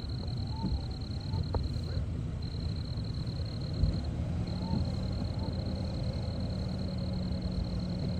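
Steady low rumble of a vehicle driving, heard from inside the cabin, with a faint high whine that cuts in and out every second or two.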